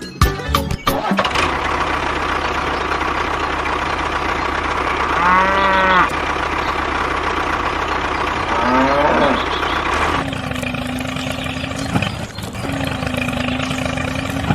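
Steady running of a small engine or motor, with a cow mooing twice, briefly, about five and nine seconds in. About ten seconds in, the running gives way to a different, steadier hum.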